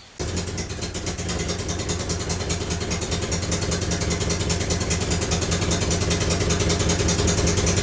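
A GAZ Volga's ZMZ-402 four-cylinder engine running with a loud, rapid exhaust puffing, like a running motorcycle. The sound is the sign of a burnt-through front exhaust pipe, with one of its pipes come loose from the flange. It cuts in suddenly right at the start and grows slightly louder.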